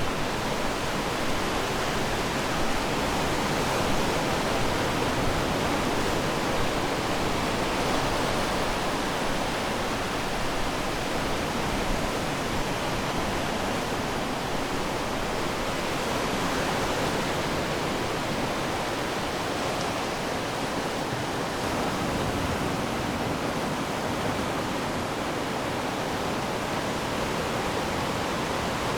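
Ocean waves washing onto the shore: a steady rushing surf noise with no distinct single breakers.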